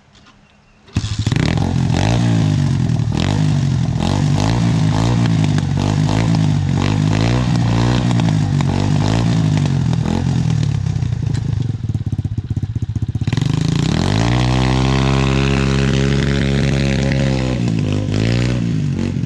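Pit bike engine starting up about a second in, then revving up and down over and over as it is ridden through deep mud. Near the end it climbs to high revs and holds there for a few seconds before dropping back.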